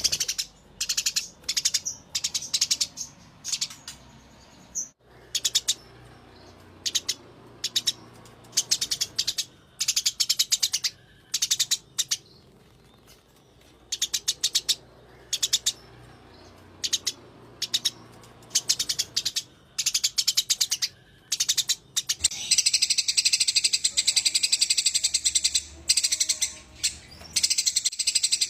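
Eurasian tree sparrow giving rapid, rattling chirp bouts: its fighting chatter. Short bursts come with gaps between them, then for the last six seconds or so they run together into one continuous rolling trill.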